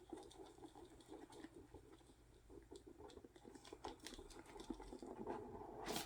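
Faint rustling and small irregular taps and clicks of hands handling an album's cardboard and plastic packaging.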